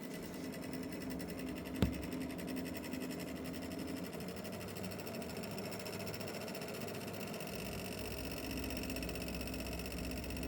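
Nvidia GeForce RTX 5070 Ti graphics card making a fast, even rattle, a sign of a fault in the card. A single sharp click about two seconds in, and a low hum growing stronger near the end.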